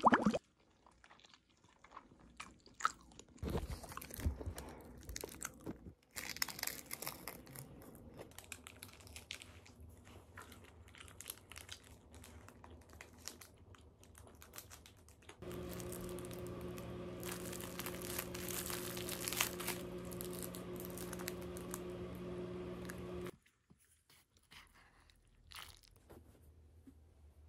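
Close-up chewing and crunching of food as a person eats triangle kimbap, with small clicks and rustles. About halfway through, a steady machine hum starts, then cuts off suddenly near the end.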